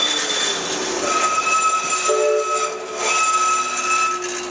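Manchester Metrolink tram running through the station, giving off several steady high-pitched tones over rumbling rail noise; the lower tones shift about two seconds in.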